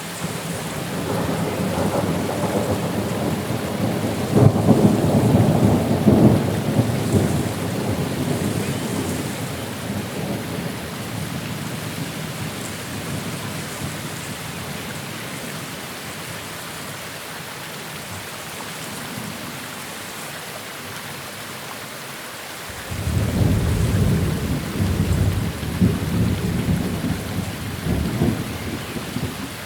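Steady rain falling, with two rolls of thunder: a long rumble that builds over the first few seconds and fades out, then a second that breaks in suddenly about three-quarters of the way through and rumbles on to the end.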